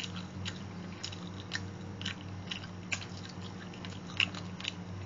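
Close-miked eating: chewing with irregular wet mouth clicks and smacks, a sharper click about four seconds in. A steady low hum sits underneath.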